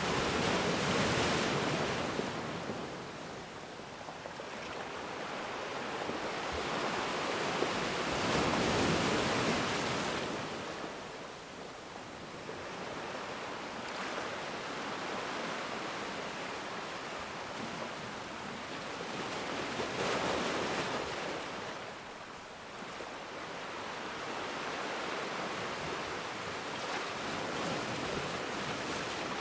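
Ocean waves breaking and washing on a shore, a steady surf hiss that swells with each wave and ebbs between, with stronger breakers about a second in, around nine seconds and around twenty seconds.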